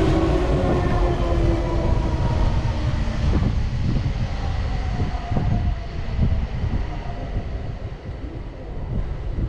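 Electric commuter train slowing at a station platform: the motor whine glides downward in pitch over a low rumble of wheels on rail, with a few knocks from the wheels.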